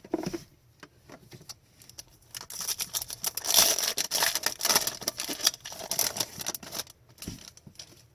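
Trading cards and their packaging being handled: scattered light clicks, then several seconds of dense crinkling and rustling in the middle that stops near the end.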